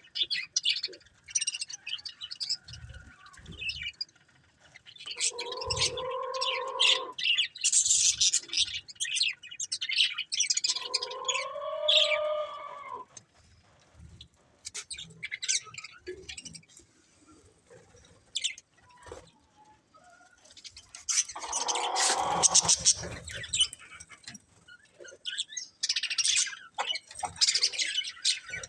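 Budgerigars chirping and chattering in quick, high notes, with pauses. Three longer, lower, drawn-out calls from another bird come in about six, twelve and twenty-two seconds in.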